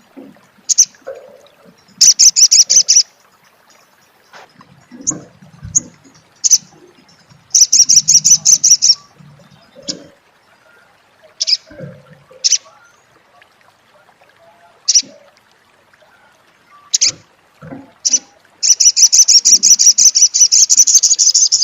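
Sunbird giving its 'crecet' chatter: rapid, high-pitched trills, a short one about two seconds in, another about seven seconds in, and a longer one of about three seconds near the end, with single sharp chip notes between them.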